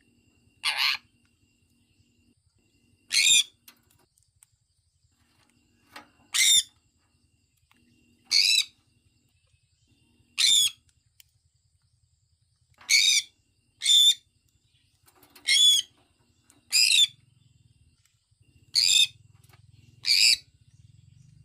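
Sun conure giving a series of short, sharp, high-pitched calls, about eleven of them, one every second or two.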